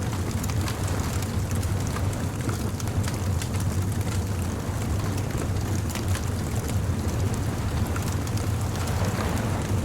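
Beach bonfire ambience: a wood fire crackling with scattered small pops over a steady low rumble.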